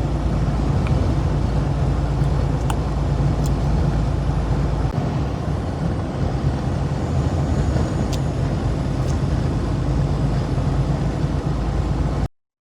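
Heavy truck engine running with a steady low rumble and noise, cutting off suddenly near the end.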